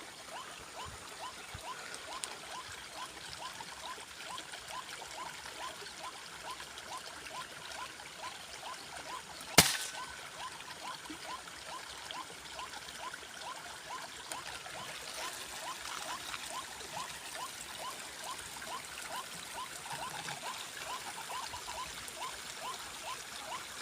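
A single sharp shot from an FX Crown PCP air rifle about ten seconds in, over a steady trickling-water background and a run of short rising chirps, about two a second.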